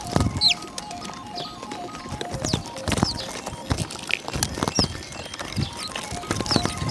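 Small birds giving brief, high, downward-sweeping chirps among frequent sharp taps and knocks, over a soft background music melody.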